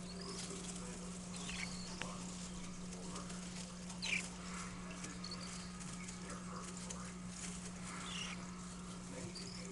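Cockatiel chicks calling: scattered short, high calls, several falling in pitch, the loudest about four seconds in, over a steady low hum.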